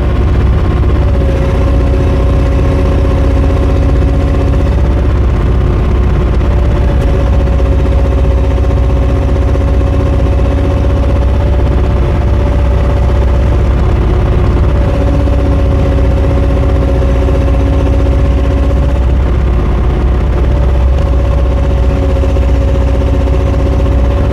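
JoyT5 JT5350 3.5-ton mini excavator's diesel engine running steadily while the hydraulics work the arm, with a lower hum that comes in and drops out several times as the controls are moved.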